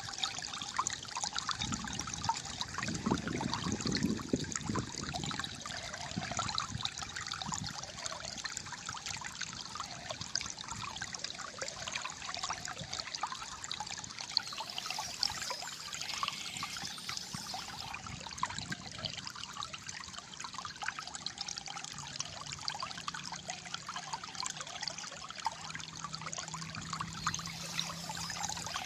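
Calm flowing water gurgling and trickling steadily, with a deeper swell of water about three to five seconds in.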